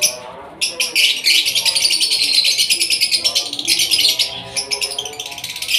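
A flock of small birds chirping rapidly and continuously, with music underneath.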